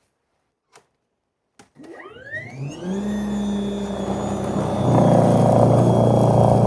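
Kobalt 80-volt battery snow blower being switched on: a couple of clicks, then its electric motor spins up with a rising whine and settles into a steady run, growing louder about five seconds in.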